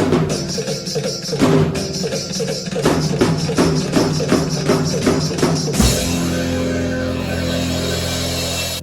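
Drum kit played over a backing track of a Tamil film-song medley, with busy hits until about six seconds in. Then one final big hit lands, and the closing chord is held as the medley ends.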